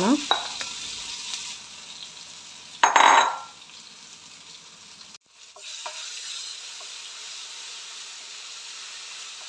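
Curry leaves sizzling in hot ghee in a frying pan, with one short louder burst about three seconds in. The sound drops out for a moment a little past five seconds, then masala paste sizzles steadily in the ghee as it is stirred with a wooden spatula.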